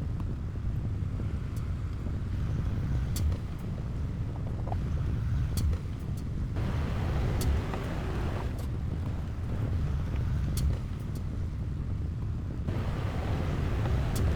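Heavy diesel construction machinery running under load: a steady low engine rumble that swells and eases every few seconds, with short sharp clicks here and there.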